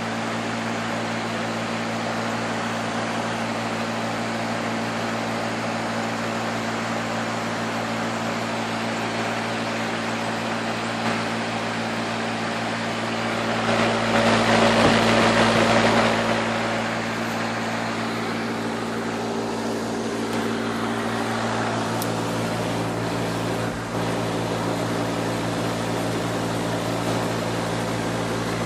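A 4-ton Tempstar heat pump's outdoor unit running in cooling mode: a steady compressor hum under the even rush of the condenser fan. The rush swells louder for a few seconds about halfway through, then settles back.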